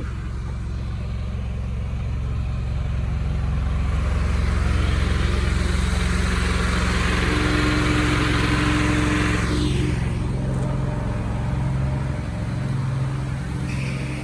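An engine running steadily, with a louder rushing noise that builds up and falls away about ten seconds in.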